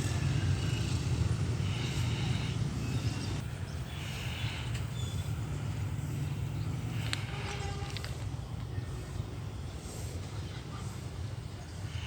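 Steady low rumble with short fowl calls every two to three seconds.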